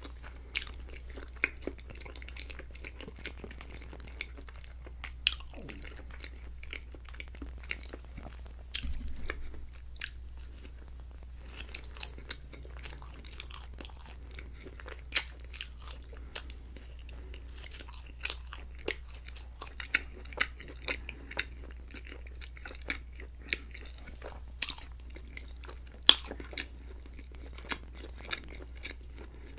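Close-miked chewing and biting of creamy alfredo pasta and garlic bread: wet mouth clicks and soft crunches at an irregular pace, the sharpest one near the end. A steady low hum runs underneath.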